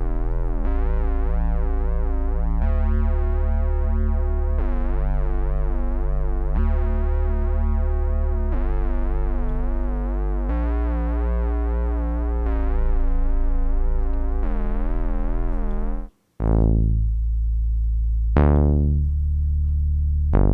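Thing 2 software synthesizer playing a preset: sustained, bass-heavy chords that change about every two seconds, with a wobbling modulation in the upper tones. After a brief cut-out near the end come two plucked notes whose brightness falls away fast as the filter closes.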